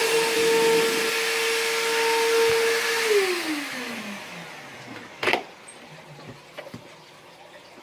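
Bissell Powerforce upright vacuum cleaner running with a steady motor whine and air rush, then switched off about three seconds in, its motor winding down in a falling pitch. A single knock follows, then a few faint clicks.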